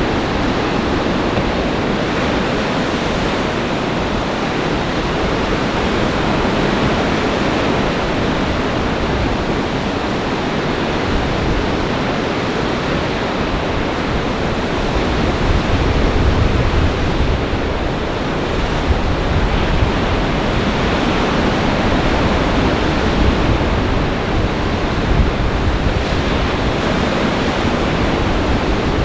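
Lake Michigan storm surf breaking under gale-force wind: a loud, steady rush of waves and wind, with low gusts of wind buffeting the microphone about halfway through.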